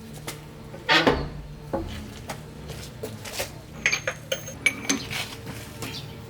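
Metal tools and parts being handled, clinking and knocking against each other: a loud knock about a second in, then a run of short ringing clinks near the end.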